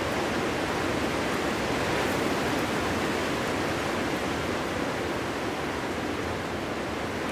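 Winter wind blowing steadily: an even rushing noise that holds at one level without gusts or whistling.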